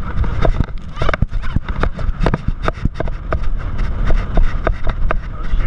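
Inflatable towed ride slapping and bouncing over the waves: a fast run of irregular thumps, several a second, over a steady low wind rumble on the microphone.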